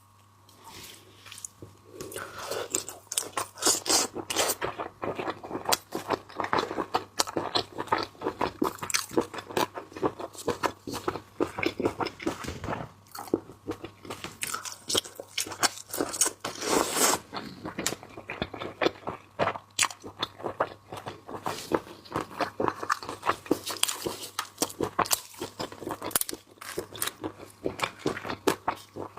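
Close-miked biting and chewing of small cuttlefish: dense, irregular wet crunching and clicking that starts about two seconds in and keeps going.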